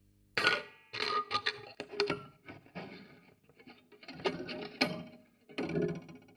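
Wooden noise box heard through a piezo contact microphone on its lid: metal attachments such as springs, bolts and steel wire struck and plucked, giving sudden clanks and twangs with short metallic ringing. They come in clusters, starting about half a second in, with gaps of near quiet between them.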